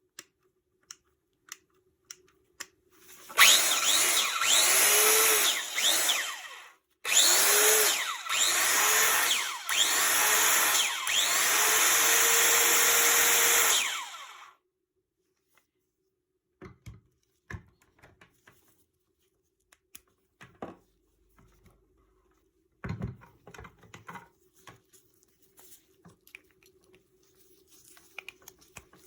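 Makita KS4000FX circular saw's motor switched on in several short pulls of the trigger, its pitch rising and sagging with each, then held running steadily for a few seconds before being switched off; it is being test-run after an overhaul. Afterwards come scattered clicks and light knocks of the saw being handled.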